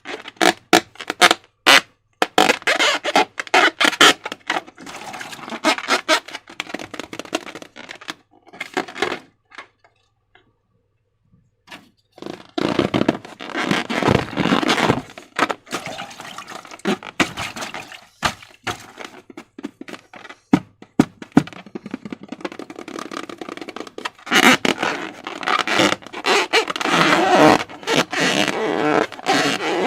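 Slime being squished and worked by hand: rapid sticky clicks, crackles and squelches that come in long runs, with a pause of a couple of seconds near the middle.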